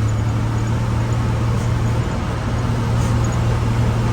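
Loaded truck's engine running steadily with a low, even hum and road rumble while descending a steep grade.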